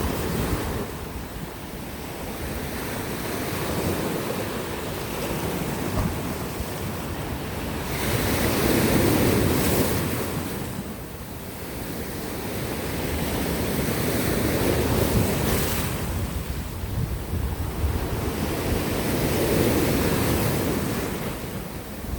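Sea waves breaking and washing on coastal rocks, the surf swelling and ebbing in three or four big surges, with wind buffeting the microphone.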